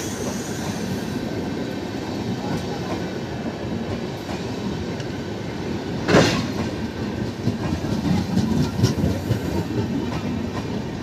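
Indian Railways LHB passenger coaches rolling past: a steady rumble of wheels on the rails, with one sharp, loud clack about six seconds in and a few lighter clacks a couple of seconds later as the wheels cross rail joints.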